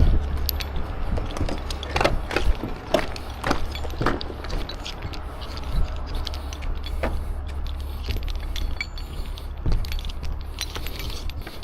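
Heavy steel rigging chain clinking and rattling as it is handled, a string of irregular sharp metallic clanks, over a steady low engine hum.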